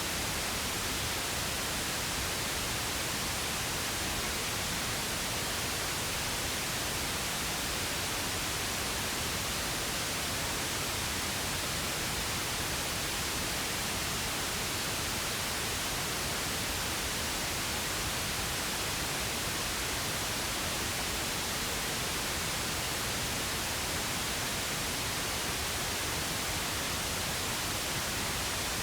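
Steady synthesized pink noise: an even, unchanging hiss with no breaks or changes.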